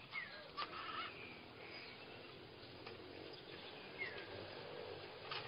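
A bird chirping twice, each a short falling note, over faint outdoor background noise, with a few sharp clicks.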